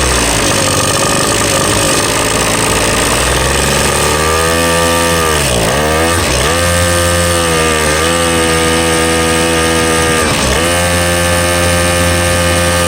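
Small engine running hard, its pitch falling sharply and climbing back twice, about halfway and again near the end, as the throttle is let off and opened again.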